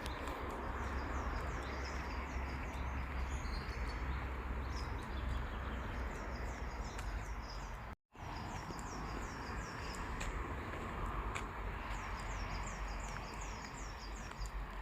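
Small songbirds singing in a forest, repeating quick runs of short, falling chirps over a steady low rumble and hiss. The sound cuts out for a split second about eight seconds in.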